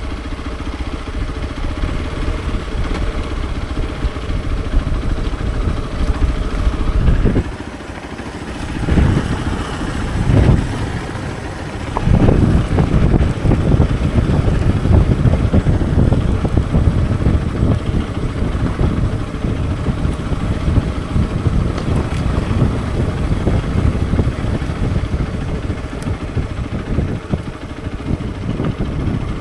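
Hero XPulse 200 4V's single-cylinder engine running while the bike is ridden. About seven seconds in the throttle is closed and the engine note drops, two short revs follow, and from about twelve seconds it pulls harder and runs steadily.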